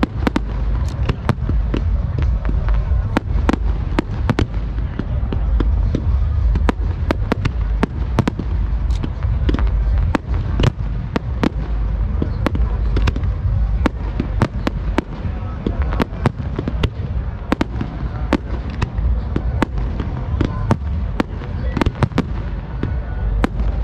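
Fireworks display: aerial shells launching and bursting in a steady run of sharp bangs, a few each second, over a continuous low rumble.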